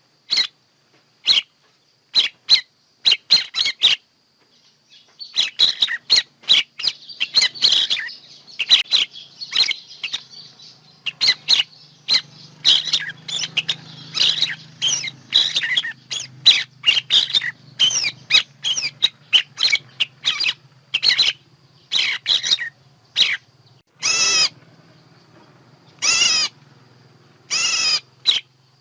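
Birds calling: a rapid run of short, sharp chirps, then near the end a few longer calls with a wavering pitch, about two seconds apart. Recorded bird song of the kind played as a lure for bird trapping.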